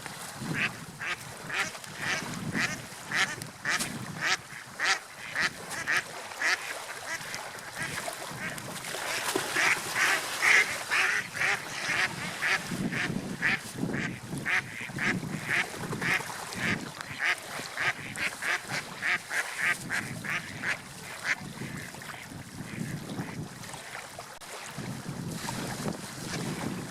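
Gulls calling in a long run of short, repeated calls, about two a second, which die away about three quarters of the way through, over a low wash of sea surf.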